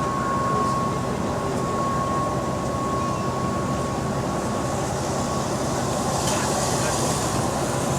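Bus's diesel engine and running gear heard from inside the cabin while under way: a steady low drone with a thin whine over it that fades out about five and a half seconds in, and a hiss rising near the end. The bus has an exhaust leak.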